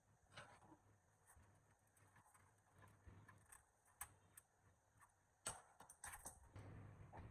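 Faint, scattered clicks and light knocks, the sharpest about five and a half seconds in, with a denser run of them near the end.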